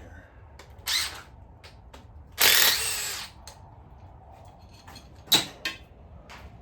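Power drill run in short bursts, four in all, the longest and loudest lasting about a second, as fasteners are taken off during an engine teardown.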